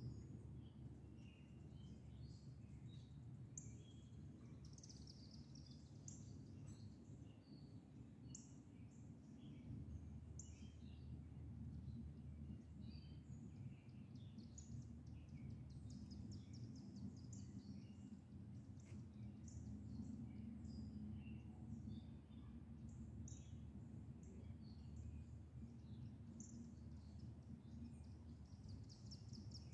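Faint songbird chirps and calls, many short notes from several birds scattered throughout, over a low steady background rumble.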